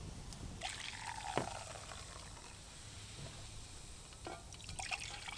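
Liquid sounds from mulled cider in a small metal billy can at a campfire, with scattered crackles and clicks, the loudest cluster about a second in.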